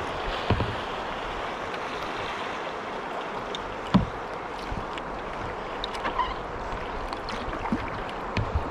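River water rushing steadily around a kayak, with a few short splashes and knocks. The sharpest knock comes about four seconds in.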